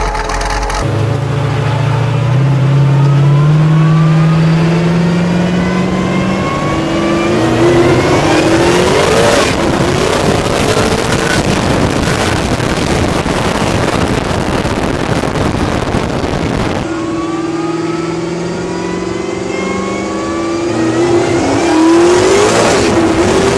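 High-performance car engine accelerating hard, its pitch climbing steadily through the gears, with a dense rushing noise in the middle stretch. The sound cuts abruptly about two-thirds of the way through, then a second climbing run follows.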